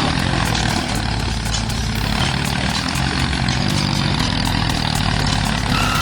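Homemade mini tractor's engine running steadily.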